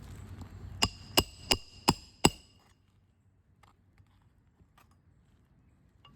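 A roofing hammer striking a roof snake five times in quick succession, about three blows a second, each blow ringing with a metallic tone, to drive a nail in under a shingle. A few faint taps follow.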